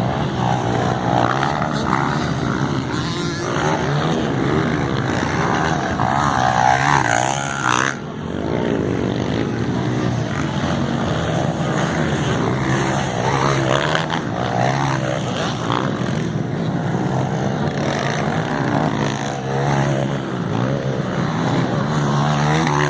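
Several motocross bikes' engines revving hard as they race, their pitches rising and falling and overlapping as riders work the throttle and shift.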